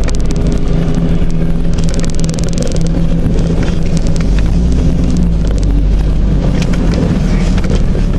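1991 Jeep Cherokee's 4.0-litre straight-six engine running steadily while the Jeep backs up in reverse, with a burst of fine crackling about two seconds in.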